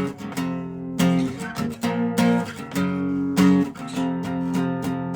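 Dobro (resonator guitar) strumming chords, breaking into a quick, even strum of about four strokes a second near the end.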